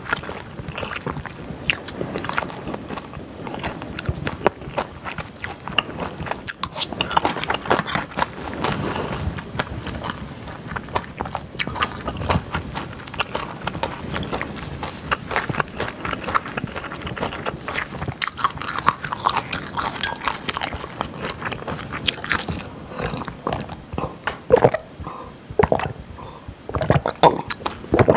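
Close-miked chewing of a mouthful of food: a dense run of small mouth clicks, with a few sharper ones near the end.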